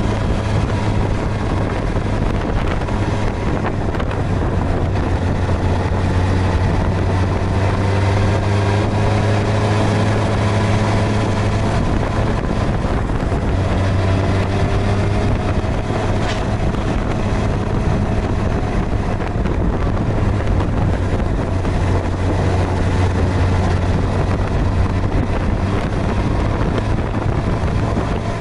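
Suzuki GSX-R1000R's inline-four engine running steadily under way, with wind rushing over the microphone. The engine note drifts gently up and down around the middle.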